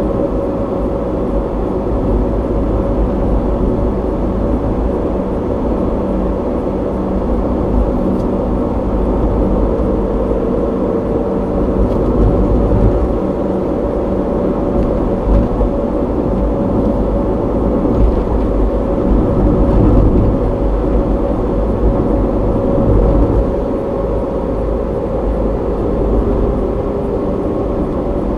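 A car driving on a road, heard through a dashcam's microphone inside the cabin: steady tyre and engine noise with a low hum.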